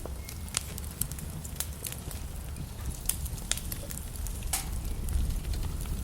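Logs burning in a fireplace: a steady low rumble of the fire with irregular sharp crackles and pops, one or two a second.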